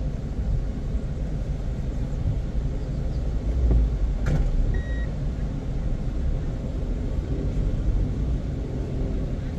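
A car driving, with a steady low rumble of engine and tyres, and a click followed by a short electronic beep about halfway through.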